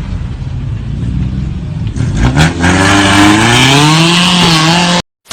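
A vehicle engine running, with a few sharp knocks about two seconds in. The engine then revs hard, its pitch rising and wavering, until the sound cuts off abruptly near the end.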